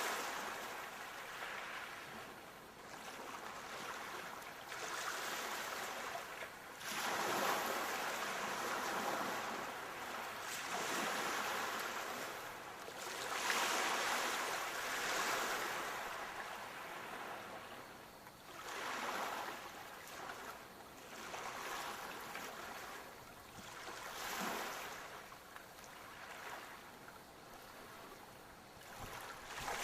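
Sea waves washing in, a hiss of surf that swells and falls again every few seconds.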